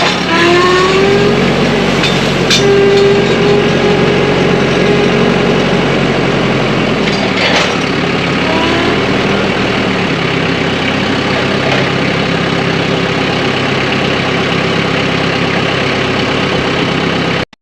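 TYM tractor's diesel engine running steadily, with a few short whines that rise and hold briefly during the first half.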